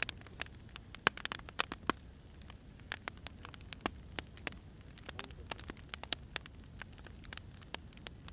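Wood fire crackling: irregular sharp pops and snaps of burning firewood, some much louder than others, over a low steady rumble of the flames.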